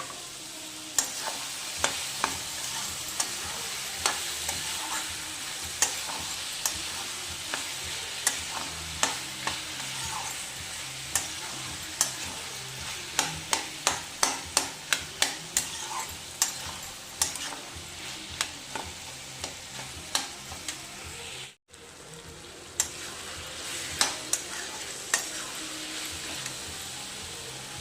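Chopped vegetables sizzling in oil and ghee in a kadai while a spoon stirs them, knocking and scraping against the pan over and over, quickest through the middle. The sound cuts out for an instant about two-thirds of the way through.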